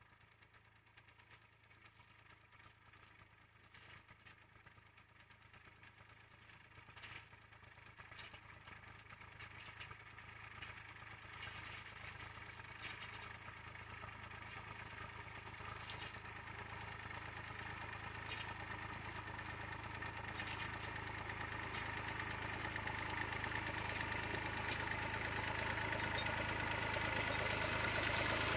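IMT 539 tractor's diesel engine running steadily, growing louder throughout, with a few faint ticks over it.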